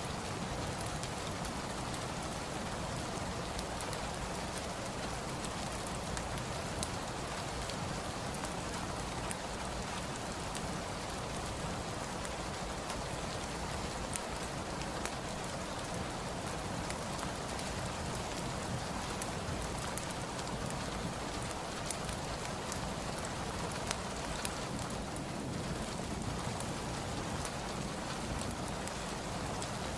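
Steady rain falling, with scattered sharp clicks and pops of a crackling wood fire over it.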